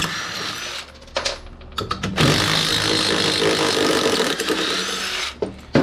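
A handheld power tool running steadily for about three and a half seconds while backing out fasteners during the teardown of metal switchgear, after a shorter run in the first second.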